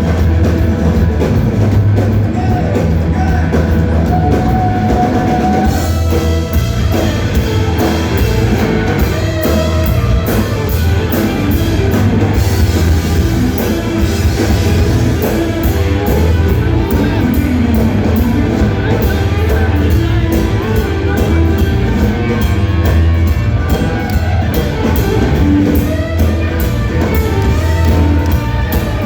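Rock music played by a full band, with a driving drum kit, a heavy bass line and guitar.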